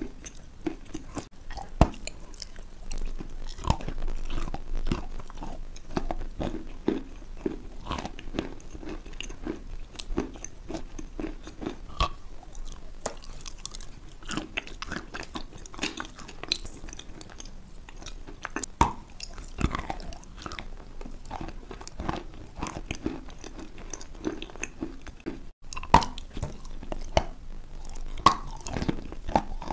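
Mouth chewing and crunching a dry, chalk-like crumbly lump right at a close microphone: irregular sharp crunches, several a second, with two louder bites, one about two seconds in and one near the end.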